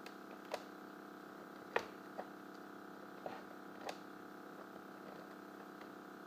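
Five sharp clicks and knocks, spread irregularly, over a faint steady hum.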